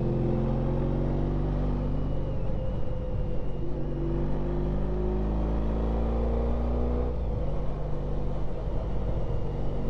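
Honda ST1300 Pan European's V4 engine running under way with wind and road noise, its pitch shifting as the throttle changes about two and a half seconds in and again about seven seconds in.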